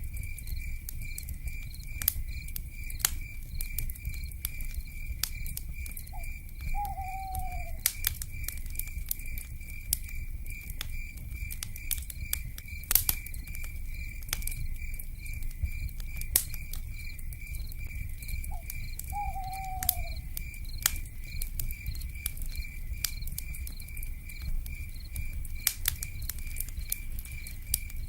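Wood fire crackling with scattered sharp pops over a low rumble, under a steady fast-pulsing insect trill. An owl calls twice, about twelve seconds apart, each time a short note followed by a falling hoot.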